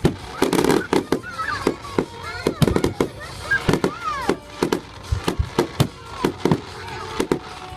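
Fireworks going off in a rapid, irregular barrage of bangs, with short squealing glides in pitch rising and falling among them.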